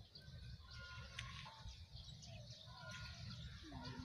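Small birds chirping and calling in short repeated notes over a low steady rumble.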